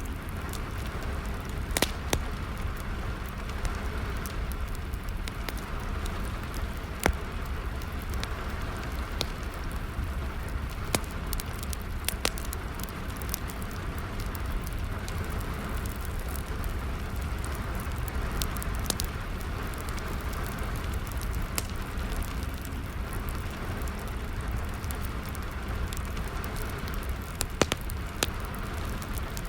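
Wood fire crackling with sharp irregular pops over a steady hiss of falling rain and a low rumble.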